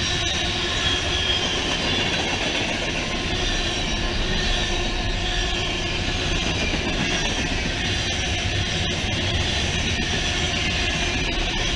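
Freight cars of a mixed freight train rolling steadily past close by: a continuous rumble of wheels on rail, with a faint, wavering high wheel squeal over it.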